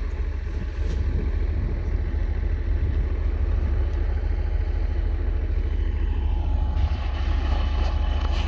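Heavy diesel machinery engine running steadily with a deep rumble, with a faint whine joining in about seven seconds in.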